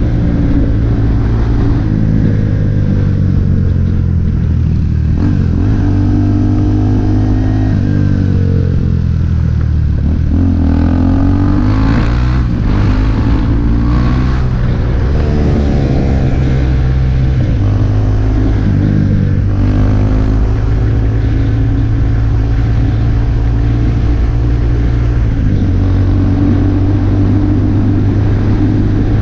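KTM RC 390's single-cylinder engine running through an Akrapovic exhaust while being ridden, the revs rising and falling several times between about 5 and 20 seconds in and holding steadier otherwise.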